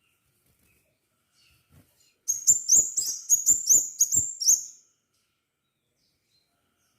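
Crimson sunbird singing a quick run of about nine sharp, high, rising chips, around four a second, that starts a little over two seconds in and stops about two seconds later, with a few faint notes before it.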